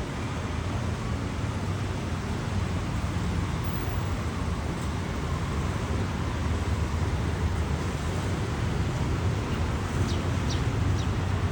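Steady road-traffic noise with a constant low rumble. A few short, high chirps come through near the end.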